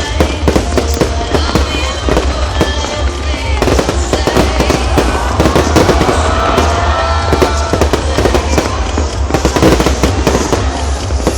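Fireworks display going off in quick succession: dense, rapid bangs and crackles with no letup, with music playing alongside.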